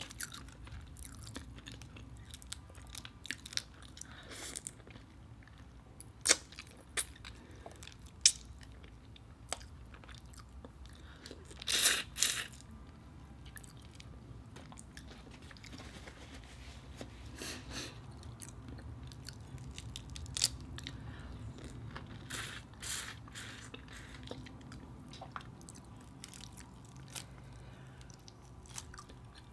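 Close-miked eating of cooked shell-on shrimp: shells being peeled by hand and mouthfuls chewed, heard as scattered small clicks and crunches, with one louder burst about twelve seconds in.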